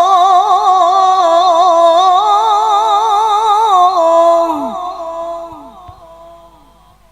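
A woman's voice reciting the Qur'an in melodic tilawah style, holding one long drawn-out note with rapid wavering ornaments in the pitch. It fades out over the last three seconds.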